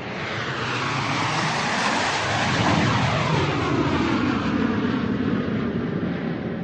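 Airplane flying past overhead: a broad engine rush that swells to its loudest about three seconds in, then slowly fades, with a sweeping tone that falls in pitch as it passes.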